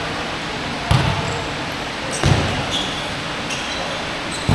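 Basketball bouncing on an indoor court floor, three thuds at uneven spacing, with short high squeaks of sneakers in between over the steady noise of the hall.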